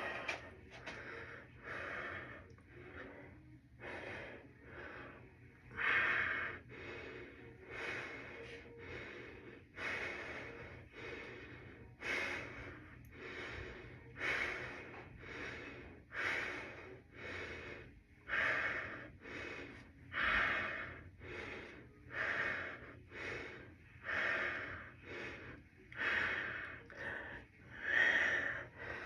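A person breathing hard and rhythmically, a loud rushing breath about every two seconds with softer ones between, the heavy breathing of exertion during a leg workout.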